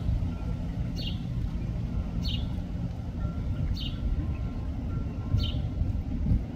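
A bird calling a short, high, downslurred chirp about every second and a half, over a steady low rumble.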